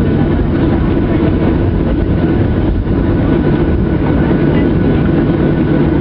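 Boeing 737-800's CFM56 jet engines running, a loud, steady, heavy rumble with a faint steady whine on top.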